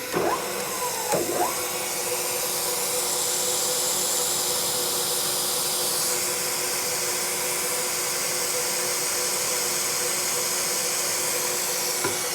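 Steady hiss of a Noga Mini Cool mist coolant system spraying Trim Mist, with the steady hum of a manual milling machine's spindle drilling a hole in a steel fixture plate. A few short falling whines come about a second in and again near the end.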